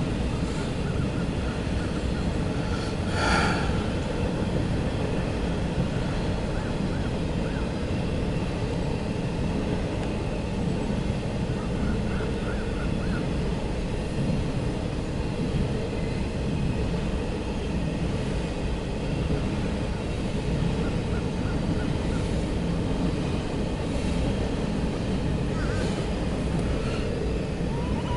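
CSX intermodal freight train rolling past, a steady rumble of wheels on the rails with a brief louder clatter about three seconds in.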